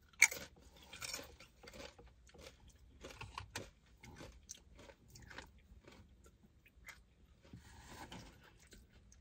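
Close-miked mukbang eating sounds: a person chewing and biting food, with irregular mouth clicks and smacks. There is a sharp, louder click just after the start.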